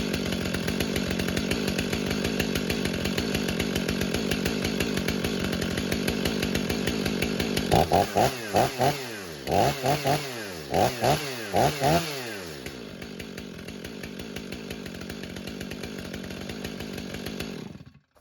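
Stihl MS500i fuel-injected two-stroke chainsaw idling as it warms up after a cold start. About eight seconds in, the throttle is blipped in a run of quick revs that climb and fall back. It then settles back to idle and cuts off suddenly near the end as it is shut off with the kill switch.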